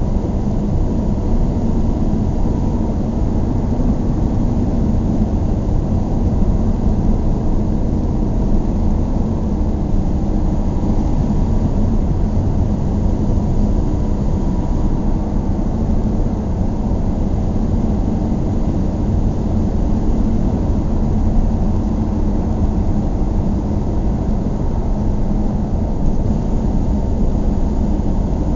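Car driving along at a steady pace: a constant low rumble of engine and tyre noise with a faint steady hum, no changes in speed.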